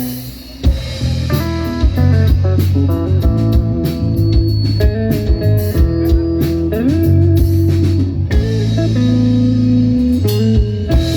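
Live band playing an instrumental break: a guitar plays a lead melody of stepping and sliding notes over bass and drum kit, with no singing.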